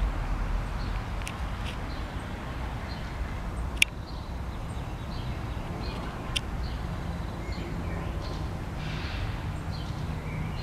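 Small birds chirping faintly, short high chirps every second or so, over a steady low background rumble. A sharp click about four seconds in, and a softer one a couple of seconds later.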